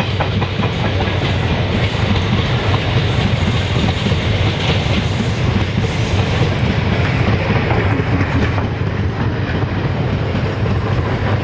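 Passenger express train running past at speed: a steady loud rumble of coach wheels on the rails with a clickety-clack from the rail joints.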